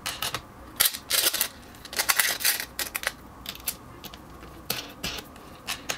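Irregular light clicks and short scrapes of hands working small hardware: the bolts and wing nuts of a sliding fence on a wooden saw table being set and fastened.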